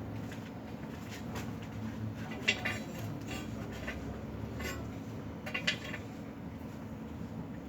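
Pieces of metal clinking against each other, a few sharp clinks with the two loudest about two and a half seconds and five and a half seconds in, over a low steady hum.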